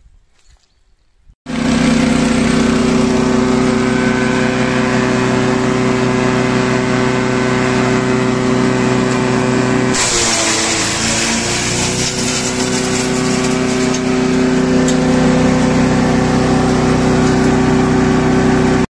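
Honda GP200 single-cylinder four-stroke engine of a petrol garden shredder, running at a steady high speed; the sound cuts in suddenly. About ten seconds in its pitch dips briefly under load and recovers, and a hissing, crackling noise joins it from then on.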